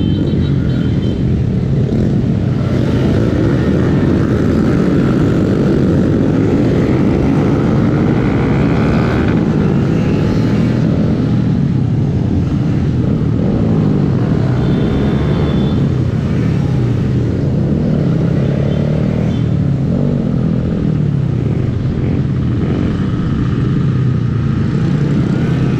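Small Honda 125 cc single-cylinder motorcycle under way, its engine note rising and falling with the throttle.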